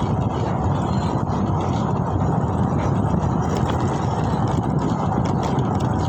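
Steady, loud low rumble of vehicle, road and wind noise heard while riding, with no clear engine note standing out.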